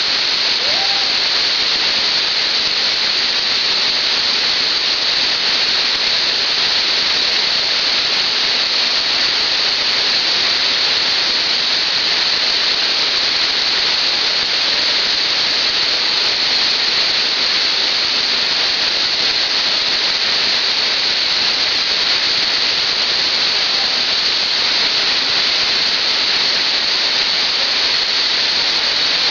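Waterfall: falling water making a steady, loud rushing hiss that stays even throughout.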